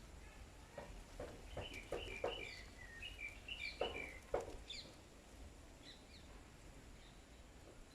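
Small birds chirping in quick runs of short notes, with a few sharp ticks among them that fit beaks pecking at rice grains. Most of it comes in the first half; it thins to a few faint chirps after about five seconds.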